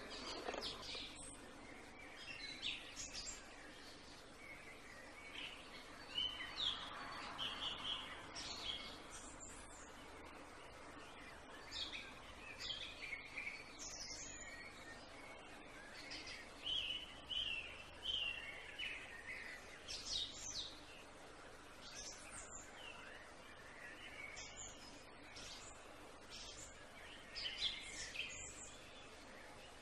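Small birds chirping and singing, many short notes and quick whistled glides, over a faint steady background hiss.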